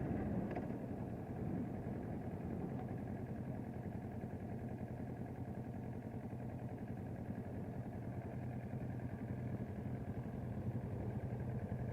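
Motorcycle engine idling steadily and low in level, with no revving.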